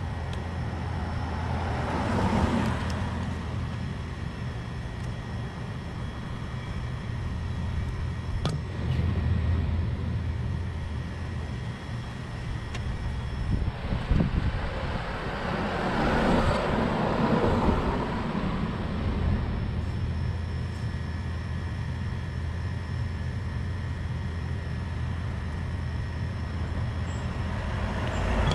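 Road vehicle driving: a steady low engine and road rumble that swells and eases a few times.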